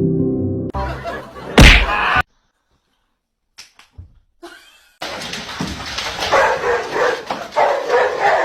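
A loud thump about one and a half seconds in, after a bit of music cuts off. From about five seconds in, a dog barks and yips in a run of short, repeated calls.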